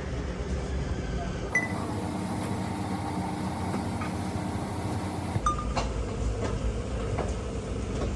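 Scattered light metallic clinks and taps over a steady low hum.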